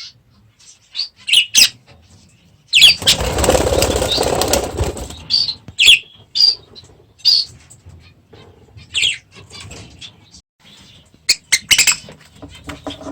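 Budgerigars chirping with short, high calls, scattered throughout, with a loud rush of wing flapping lasting about two seconds from roughly three seconds in.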